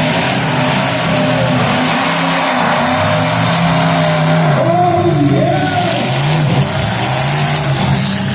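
Demolition derby car engines running hard and revving, their pitch rising and falling over a constant loud rumble.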